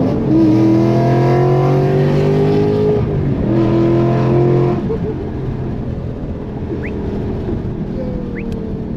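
Car engine accelerating hard: the pitch rises, drops at a gear change about three seconds in, rises again, then falls away and quietens after about five seconds.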